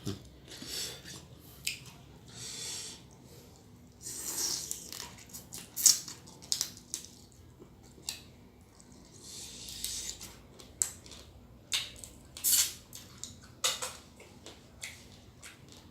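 Biting and chewing fresh blue swimmer crab: irregular sharp cracks and crunches of shell, the loudest about six seconds in, with softer chewing between.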